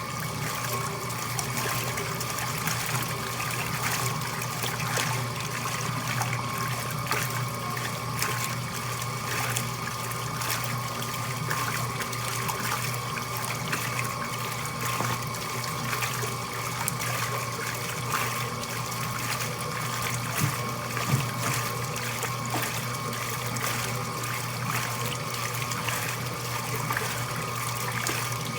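Laundry machine running steadily, its motor humming under a constant trickle and splash of water.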